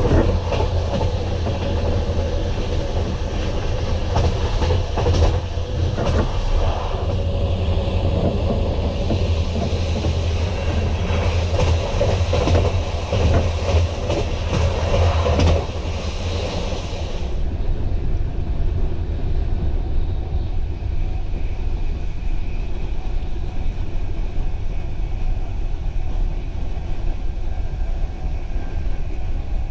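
Sleeping car of a moving train heard from inside: a steady low rumble of wheels on rails with frequent clicks and knocks, growing duller and quieter a little over halfway through.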